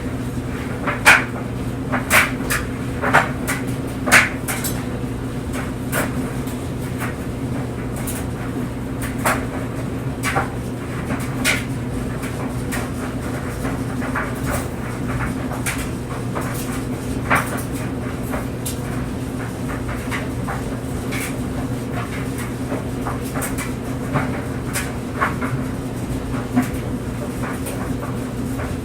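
Clothes dryer running: a steady motor and drum hum, with irregular knocks and clicks as the tumbling clothes hit the drum, several close together in the first few seconds and scattered ones after.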